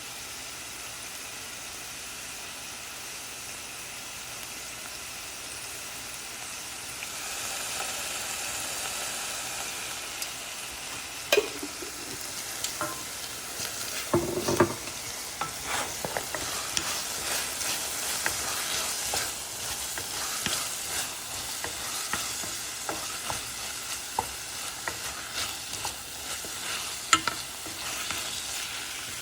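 Onion and tomato masala sizzling in oil in a pan, the sizzle growing louder about seven seconds in. From about eleven seconds a spoon scrapes and clicks against the pan as the masala is stirred.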